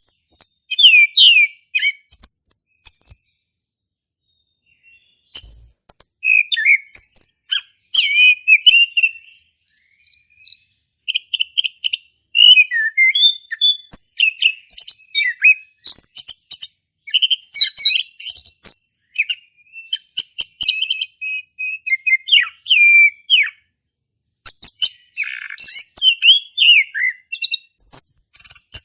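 Male chestnut-capped thrush (anis kembang) in full song: a long run of quick, varied high whistles, trills and chirps in rapid phrases, with a short pause a few seconds in and another near the end.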